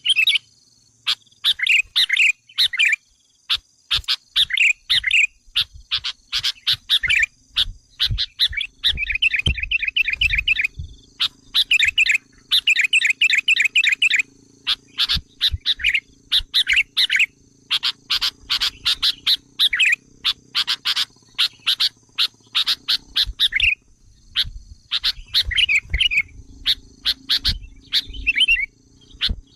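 Sooty-headed bulbul lure call: bursts of rapid, excited chattering notes, each burst about a second long and repeated over and over with short gaps.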